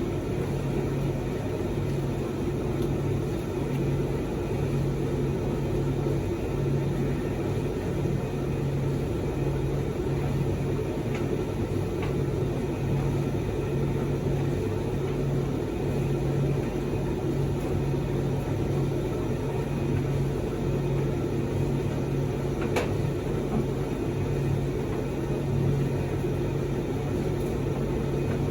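Proline TDV60 vented tumble dryer running on a test load of dust sheets, its drum turned by a newly fitted drive belt. It gives a steady motor hum that pulses in an even rhythm, with a few faint clicks from the tumbling load.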